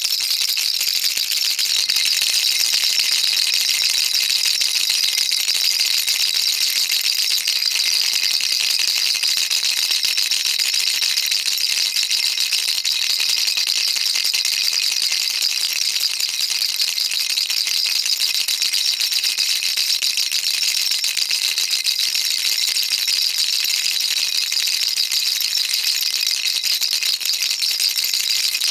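Baby rattle shaken continuously: a dense, steady high rattle of small beads with no pauses.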